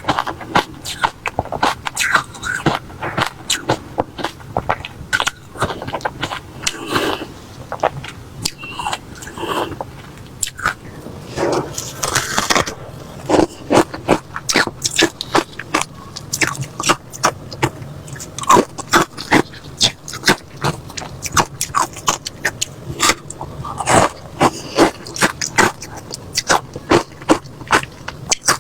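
Close-up crunching of refrozen crushed ice being bitten and chewed: rapid, irregular sharp cracks, several a second.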